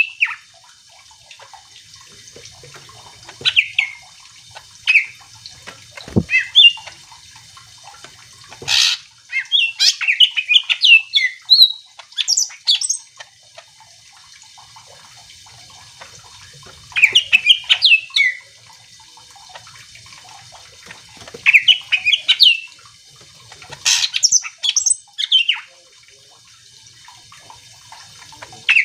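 Cucak ijo (green leafbird) singing in phrases of quick, varied chirps and whistles, each phrase lasting one to four seconds with pauses of a few seconds between them. There is a single sharp knock about six seconds in.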